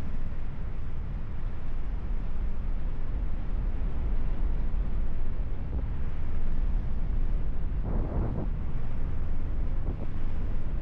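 Wind buffeting the microphone of a paraglider pilot in flight: a steady low rumble, with a brief louder rush about eight seconds in.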